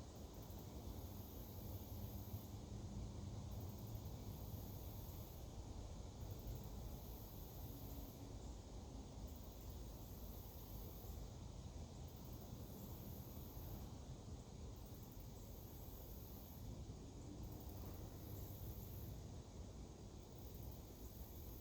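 Outdoor insect chorus: high-pitched buzzing that comes in stretches of about two seconds with short gaps, repeating throughout, over a steady low rumble.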